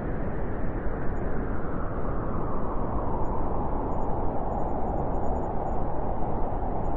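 Wind blowing in a steady hollow rush, with a whistling band whose pitch sinks slowly over several seconds.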